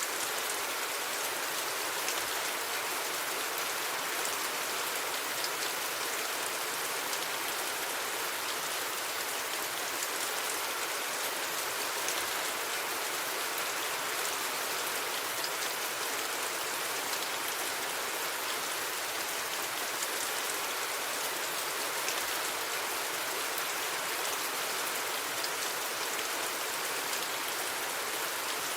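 Steady rain falling, an even hiss with scattered drop ticks, no thunder.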